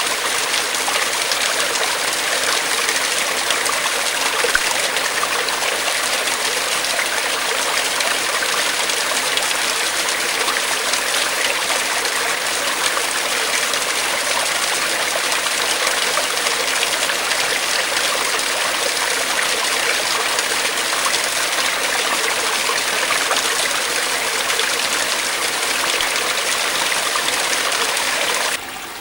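Stream running steadily through a rocky cleft, a continuous rush of splashing water. Just before the end it turns abruptly quieter.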